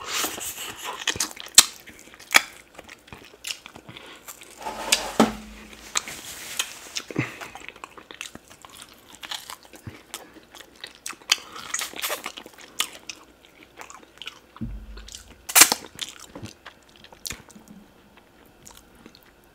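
Close-miked ASMR eating: biting and chewing tender oxtail meat pulled off the bone by hand, with wet, sticky mouth clicks and irregular small crunches, a few of them louder.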